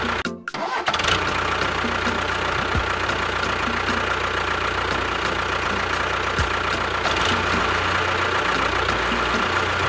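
Small motor running steadily with a thin high whine; the sound cuts out briefly about half a second in, then carries on unchanged.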